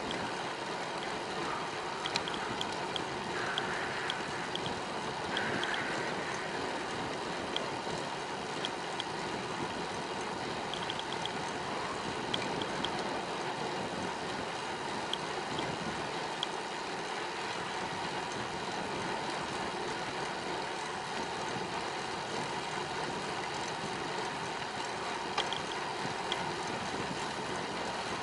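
Steady rushing noise of wind and tyres while riding a bicycle, with scattered light ticks throughout.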